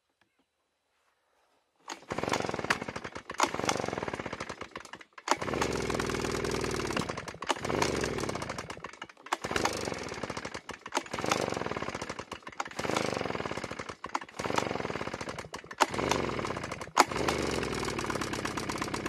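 Small two-stroke engine firing in short, ragged runs of a second or two that die away, again and again, as it is restarted. It won't keep running because the choke is left on the whole time.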